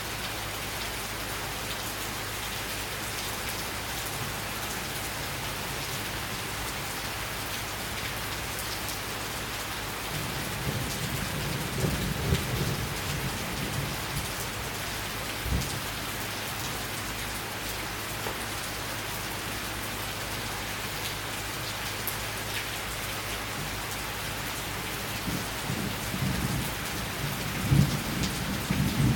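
Steady summer rain falling, with low thunder rumbling about ten seconds in and again near the end.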